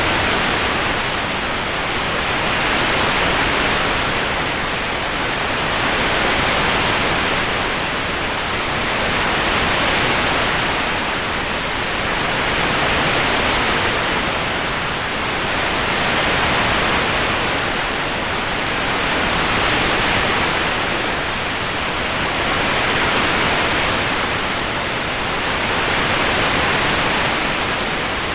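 Steady rain-sound track: an even hiss of rainfall that swells and eases gently about every three seconds.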